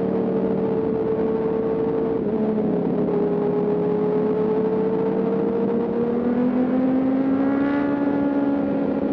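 Sport motorcycle engine running under way, holding a steady pitch, dipping slightly about two seconds in, then revving up for a couple of seconds near the end, over a rush of wind noise.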